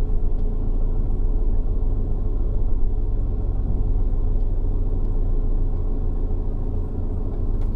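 Van engine and road rumble heard inside the cab while driving, a steady low drone with a faint steady hum above it.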